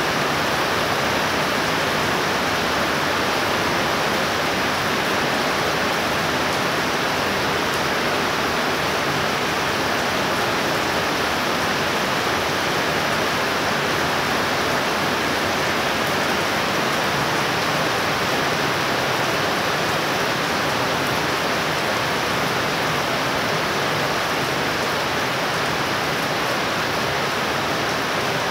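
Heavy rain pouring down steadily: a dense, even hiss of rainfall that does not let up.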